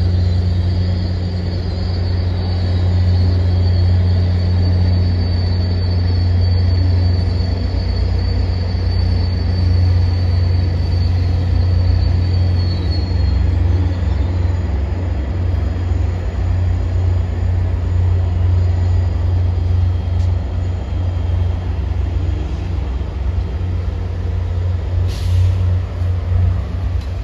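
Passenger train passing, its wheels squealing in a high steady tone that fades out about halfway through, over a loud, steady low drone. A short hiss comes near the end.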